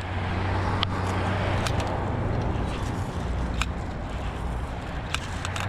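Road traffic passing: a vehicle's steady engine hum and tyre noise that swells in the first second and eases off after about three seconds, with a few sharp light clicks.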